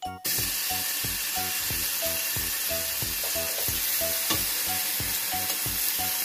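Hot oil sizzling steadily in a frying pan as an egg and then strips of bacon fry, starting suddenly just after the start.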